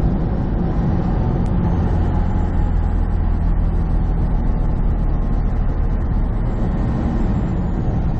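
Semi truck's diesel engine and tyre noise heard from inside the cab while cruising on the highway: a steady low hum under the rush of the road.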